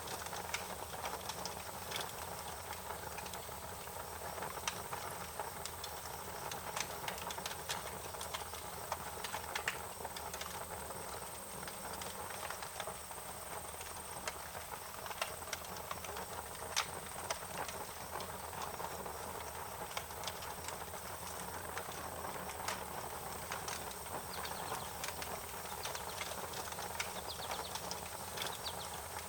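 Wood fire crackling: irregular sharp pops and snaps over a steady low hiss, with a faint steady high-pitched tone underneath.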